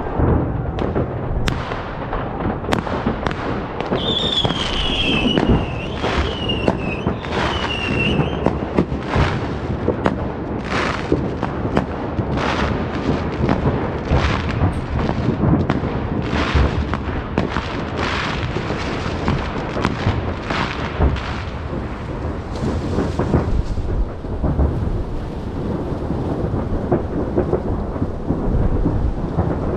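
Fireworks display: a steady barrage of booming shell bursts and sharp bangs with crackling, and a wavering high whistle from about four to eight seconds in.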